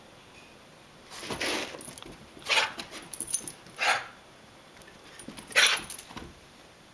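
Dog making short, sharp hiccup-like sounds, four main ones at irregular intervals with a few smaller clicks between them; the owner wonders whether they are hiccups.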